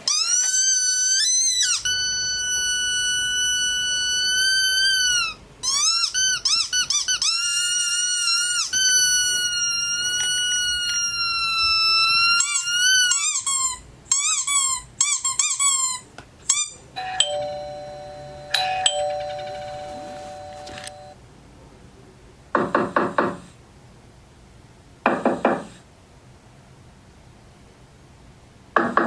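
A run of long, high squeaks whose pitch bends up and down, breaking into short chirps, as from a squeezed squeaky dog toy. About two-thirds in, a two-note doorbell chime rings, followed by three short bursts of rapid knocking.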